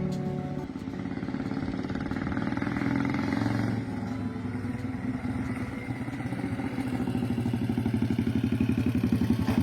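Single-cylinder Husky engine of a 1957 Cushman Eagle scooter running, a rapid even beat of firing pulses that grows louder and steadier in the second half.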